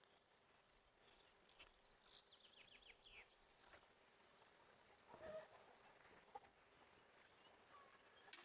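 Faint rural ambience: a small bird's quick descending run of chirps, then a brief call from a farm animal about halfway through.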